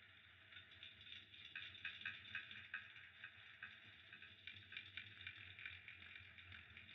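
Fireplace fire crackling softly: a steady faint hiss with many small, irregular pops and snaps, a little busier about a second and a half to three seconds in.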